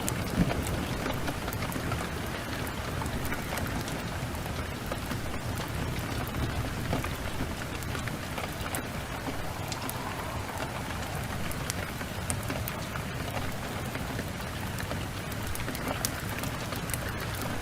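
Steady rain, with scattered sharp clicks over it. A low rumble of thunder tails off in the first moment.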